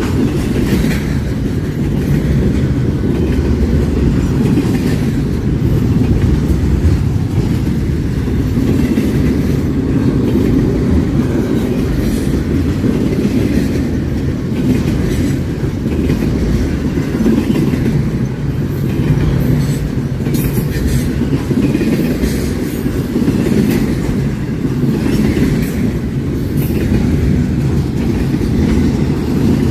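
A train's cars rolling past close by in a steady loud rumble, with the wheels clicking over the rail joints.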